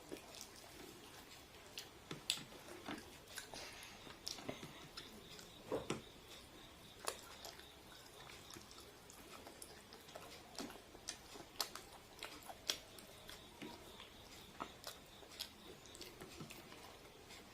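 Quiet chewing and biting of fried chicken and rice, with irregular small clicks, crunches and mouth smacks.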